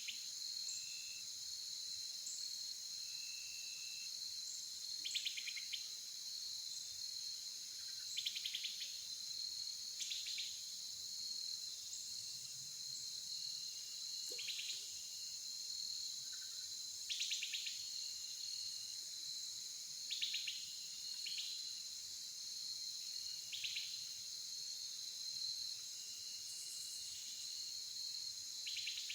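Steady outdoor chorus of insects, a continuous high-pitched trilling drone. About every few seconds, short buzzy bird calls stand out over it.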